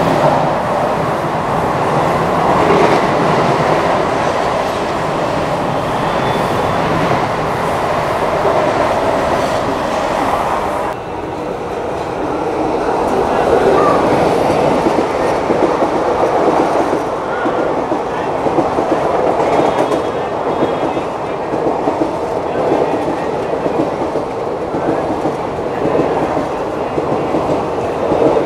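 Passing electric trains running on the rails with a steady rumble and wheel clatter. First a suburban electric local train passes close by; after a cut about 11 seconds in, the running noise continues from an electric locomotive hauling a long rake of passenger coaches.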